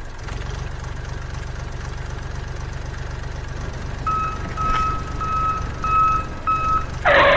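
Mini tractor's engine idling with a steady low rumble. About four seconds in, five evenly spaced reversing beeps sound, each about half a second long, and near the end a short, loud blast cuts in.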